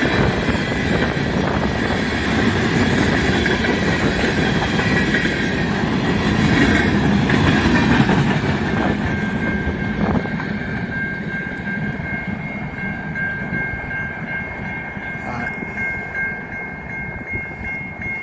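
Freight train cars rolling past on the rails, a dense rumble with the clack of wheels over the rail joints. About halfway through, a steady high two-note squeal or tone comes in and holds as the rumble slowly fades.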